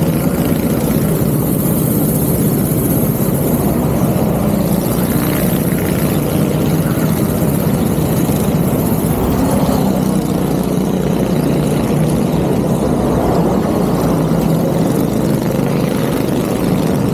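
Go-kart engines running as a loud, steady drone, with no clear rise or fall in revs.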